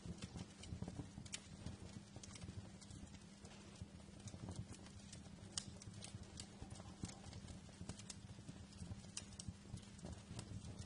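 Wood fire crackling in a fireplace: irregular, sharp pops and snaps over a soft, low, steady rumble.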